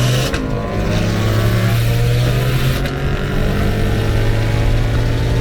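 Turbocharged Mitsubishi Evo X engine pulling at full throttle, its pitch climbing slowly as the car accelerates. There is a sudden break in the sound about a third of a second in, and a short click near the three-second mark.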